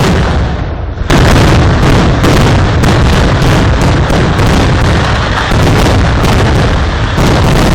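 A rapid barrage of loud firework explosions, the bangs so close together that they merge into a near-continuous din, easing briefly and then bursting back in about a second in.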